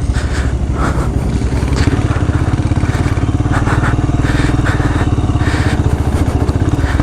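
Royal Enfield Himalayan's single-cylinder engine running steadily at low revs, with a fast, even pulse. There is some faint clatter over it.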